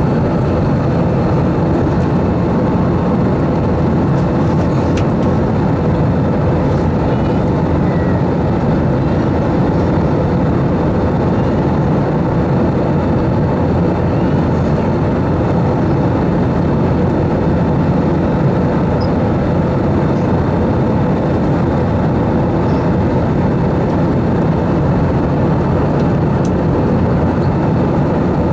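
Steady cabin noise inside an Airbus A320 in flight: rushing airflow and the hum of its CFM56 engines, with a faint steady whine over it.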